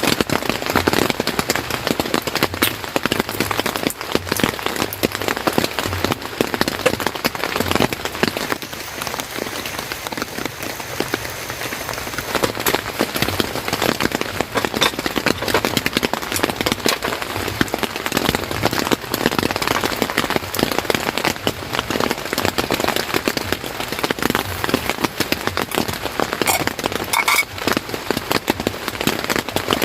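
Steady rain falling, a dense patter of many drops landing on a surface.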